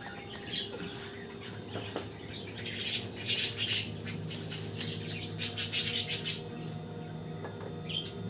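Caged pet birds fluttering and rustling, with bursts of wing-flapping about three seconds in and again around five to six seconds, over a faint steady low hum.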